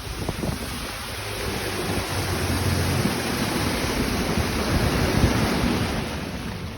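Wind rushing over the microphone with water around a boat on a lake: a steady rushing with low rumble that swells in the middle and eases near the end.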